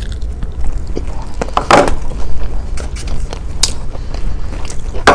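A person chewing a mouthful of avocado toast, with scattered small clicks and crunches.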